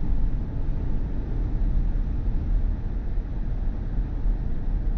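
Steady low road and tyre rumble of a moving BMW i4 M50 electric car, heard from inside the cabin, with no engine note.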